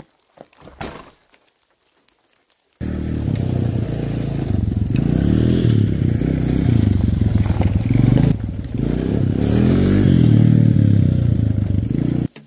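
ATV (quad) engine running and revving up and down as it is ridden. It starts abruptly about three seconds in and cuts off suddenly near the end.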